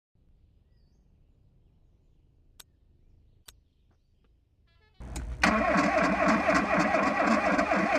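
Two faint clicks over near quiet, then about five seconds in a Tofaş Doğan car's engine starts up and runs loudly and steadily.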